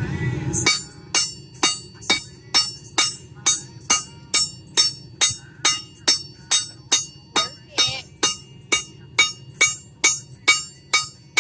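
Blacksmith's hammer striking a hot railroad spike on an anvil: over twenty blows at a steady beat of about two a second, each followed by a short metallic ring from the anvil. A low rumbling noise stops just under a second in, as the hammering starts.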